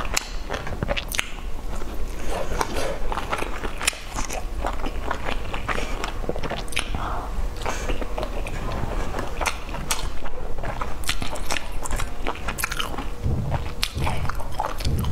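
Close-up chewing and mouth sounds of someone eating soft steamed dumplings: many small wet clicks and smacks, one after another.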